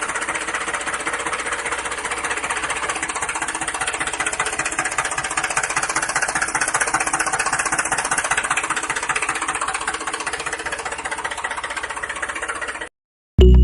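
Small motor of a DIY model tractor running steadily with a fast, even rattle, cutting off abruptly near the end. Music starts right after.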